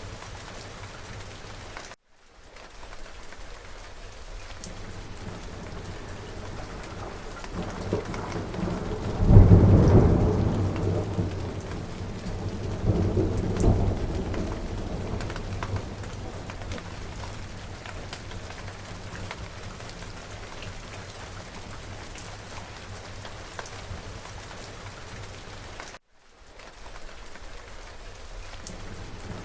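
Steady rain falling, with a rumble of thunder building about eight seconds in to a loud peak, swelling again a few seconds later and then fading back into the rain. The rain sound cuts out abruptly for an instant twice.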